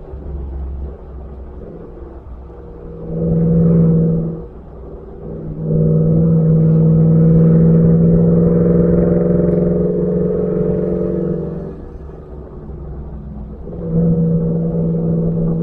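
Ford F-150 pickup's engine through a Borla Atak performance exhaust, pulling loudly at a steady pitch in three stretches of throttle, dropping back to a quieter note between them. The longest pull is about six seconds.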